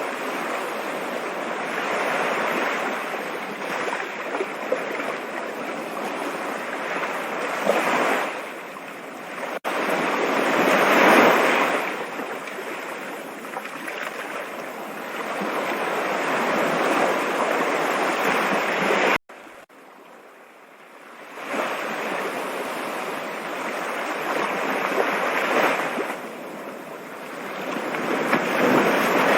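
Stream water rushing and splashing, a dense steady noise that swells and eases every few seconds. About two thirds of the way through it cuts out suddenly and builds back up over a couple of seconds.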